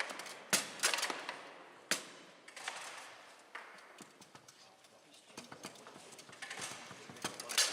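Bonzini foosball table in play: sharp knocks of the ball against the players and the table walls, with clacks of the rods, in irregular clusters about half a second in, around two seconds in and again near the end.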